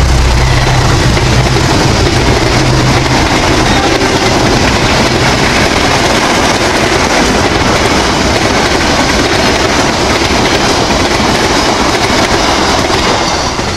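Passenger train passing at speed: loud, steady rolling noise of the coaches' wheels on the rails. A low diesel-locomotive engine hum fades away over the first few seconds. The noise falls off near the end as the last coach goes by.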